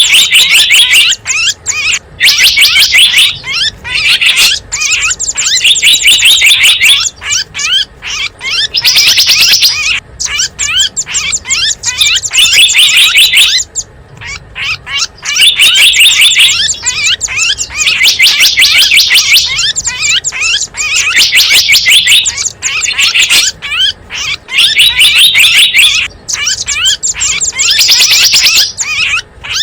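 Loud lure recording of small wild songbirds chirping: rapid, high-pitched chirp phrases of a second or two, repeated over and over with short gaps.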